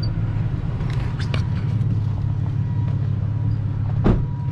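Steady low rumble of a pickup truck's engine and road noise, with a few light clicks about a second in and a short thump about four seconds in.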